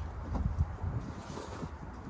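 Low rumble of wind buffeting the microphone, with a few soft knocks in the first second.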